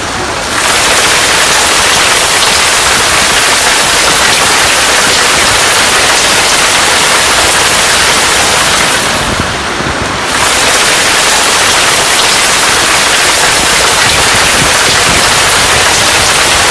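Heavy rainstorm with strong wind: a loud, steady rushing noise of pouring rain and gusts, easing briefly about nine seconds in before picking up again.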